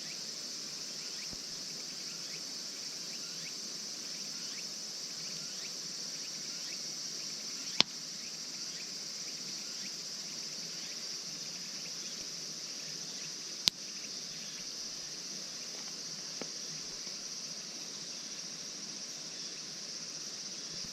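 Steady high chorus of crickets and other insects, with two sharp pops from the burning campfire wood about eight and fourteen seconds in.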